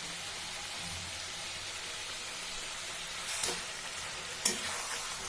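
Chicken and tomatoes sizzling steadily in hot oil in a kadai. A utensil clicks sharply against the pan twice, about three and a half and four and a half seconds in.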